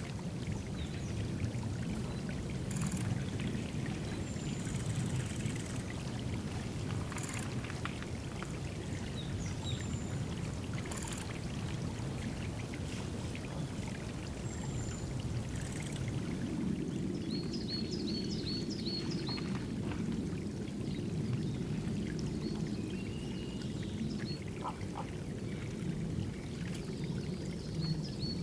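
Water pouring and trickling steadily into a woodland drinking pool, with small songbirds calling over it: scattered short high chirps and whistles, and a quick run of high notes twice, once around the middle and again near the end.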